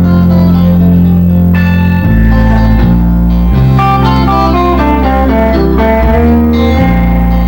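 A band playing guitar-led music: guitars over held bass notes that change every second or two, with a picked guitar melody stepping quickly up and down through the middle.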